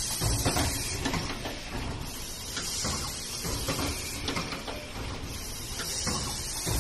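Automatic care-label picking and ultrasonic welding machine running its cycle: mechanical clattering with a hiss that returns every couple of seconds.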